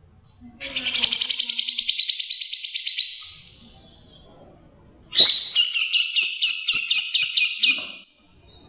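Songbird singing two rapid trilled phrases. The first starts about half a second in and is a fast, even trill lasting nearly three seconds. The second starts with a sharp note about five seconds in and runs as a slower string of repeated notes for nearly three seconds.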